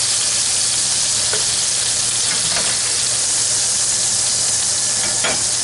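Boneless chicken thighs sizzling in hot bacon fat in a pan, a steady frying hiss, with about three faint clicks as the pieces are lifted out.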